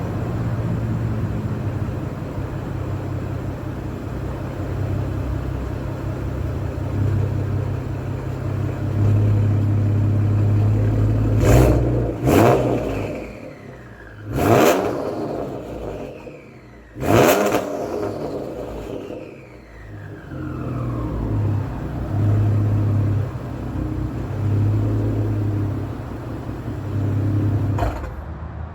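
Ford Explorer 3.5L EcoBoost twin-turbo V6 idling with a steady low hum, then revved sharply four times in quick succession around the middle, each rev followed by a falling whine as it drops back to idle.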